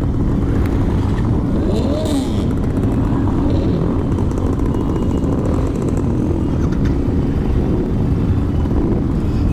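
Many motorcycle engines, Harley-Davidsons among them, running together in a steady low rumble as a large group of bikes starts up and pulls away.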